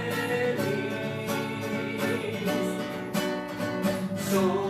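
Singing with guitar accompaniment: the word 'feliz' is held as a long sung note at the start, then the guitar strums on steadily with little voice.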